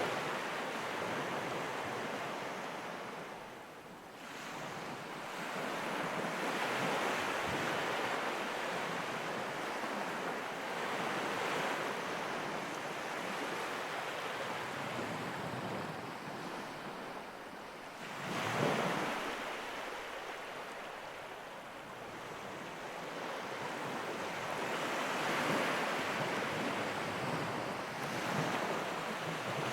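Ocean surf washing ashore, rising and falling in slow surges every several seconds, with one sharper wave break about two-thirds of the way through.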